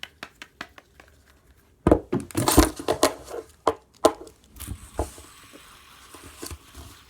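Small hard toys being handled: a run of light clicks, then a burst of louder clattering knocks from about two to three and a half seconds in, then a few scattered clicks.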